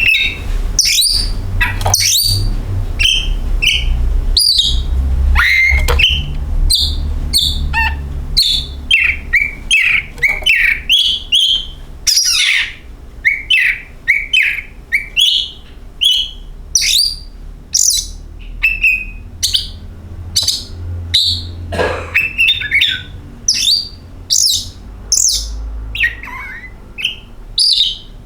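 Oriental magpie-robin (kacer) singing a rapid, varied song of short whistles and chirps, many notes sweeping downward, over a low hum.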